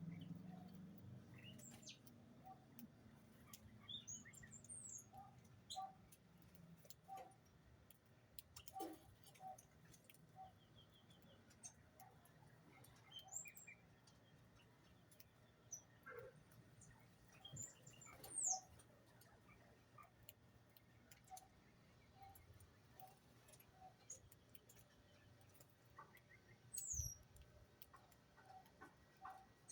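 Faint bird chirps and calls: scattered short chirps, a few quick high sweeping notes, and a string of soft low pips repeating about once a second.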